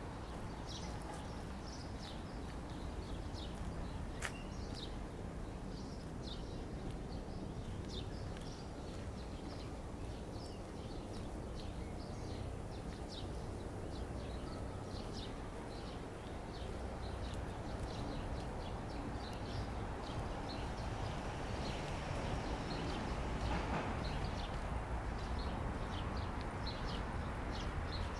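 Small birds chirping, with many short high chirps scattered throughout, over a steady low background rumble.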